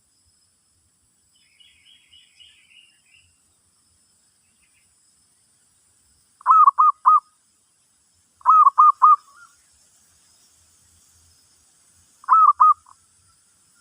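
Zebra dove (merbok) cooing in three short phrases, each a quick run of three or four stuttering notes, the second following two seconds after the first and the third about four seconds later. Faint higher chirps come near the start, over a steady faint high insect hiss.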